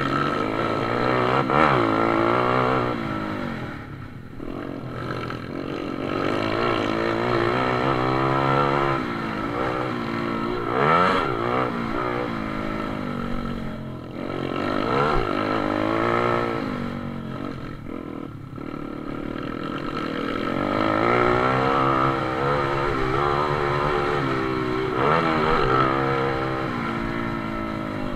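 Pit bikes racing: small motorcycle engines rev up and drop back again and again as the bikes accelerate and brake, the pitch climbing and falling every few seconds.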